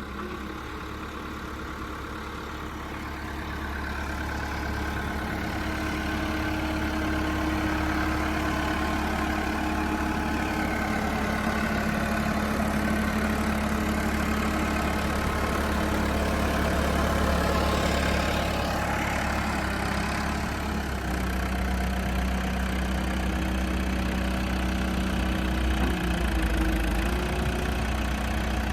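JCB 214 Series 2 backhoe loader's diesel engine running steadily, getting louder a few seconds in and changing its note slightly near the end.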